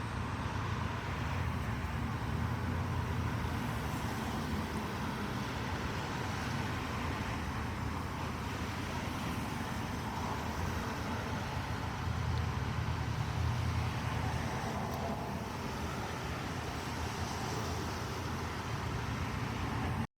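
Steady traffic-like noise with a low rumble. It starts and cuts off abruptly.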